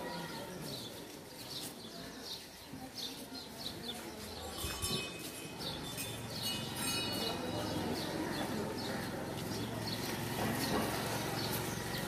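Small birds chirping repeatedly, short high calls coming in quick clusters and busiest in the middle, over a low, even background noise.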